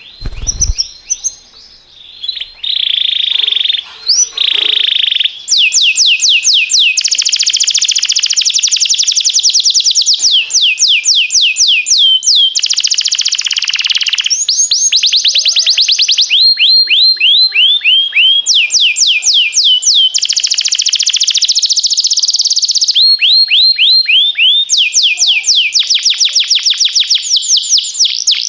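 Domestic canary singing long, rapid, high-pitched trills of repeated down-sweeping notes, in phrases a few seconds long with short breaks between them. There is a brief low thump at the very start.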